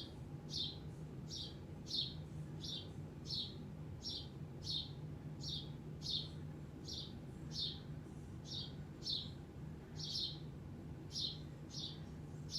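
A bird trapped inside a house chirping over and over: short, slightly falling high chirps about twice a second.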